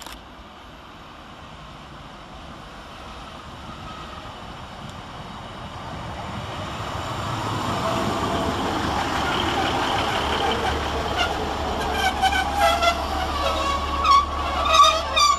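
Class 150 Sprinter diesel multiple unit arriving at a platform, its rumble and wheel noise growing steadily louder as it draws in. In the last few seconds the brakes squeal and clicks and clonks come as it slows to a stop.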